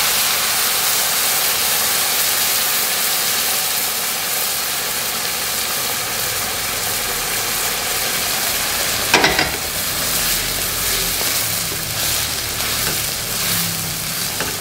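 Shrimp stock poured into a hot wok of fried spice paste, sizzling and bubbling with a steady hiss. There is one sharp knock about nine seconds in, and a wooden spatula stirs the wok near the end.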